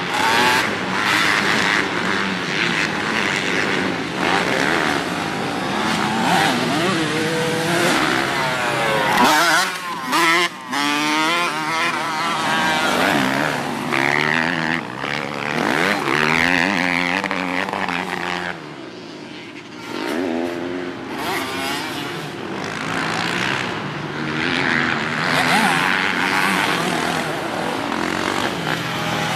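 Dirt bike engine revving as it is ridden, its pitch rising and falling again and again, with the engine briefly quieter about two-thirds of the way through.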